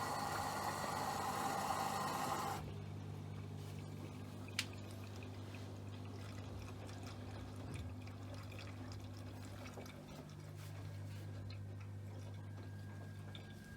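Bosch WFP3231 washing machine drawing in water: a loud hiss that cuts off suddenly about two and a half seconds in as the inflow stops. A low steady hum remains, with a single sharp click a couple of seconds later.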